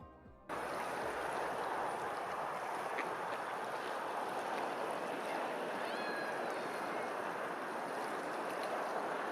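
Steady rushing noise of running water, starting abruptly about half a second in, with faint short high chirps about six seconds in.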